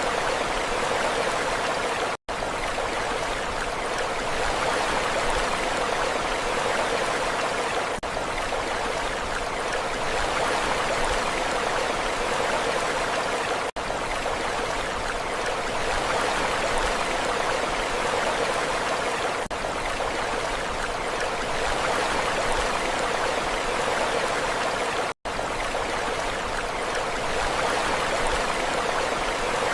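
Steady rushing water, an even continuous wash with no distinct splashes, cutting out for an instant twice.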